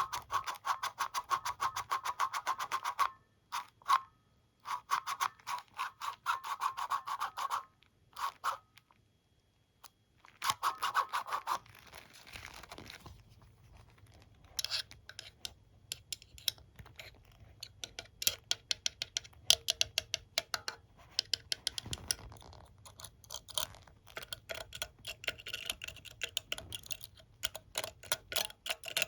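Teeth of a hair comb and brush flicked by fingers in quick runs of clicks, with three runs in the first twelve seconds. After that come slower, scattered taps and light scratches.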